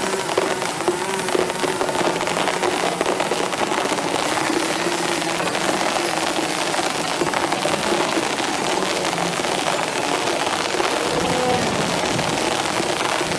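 Steady heavy rain with a faint wavering hum underneath.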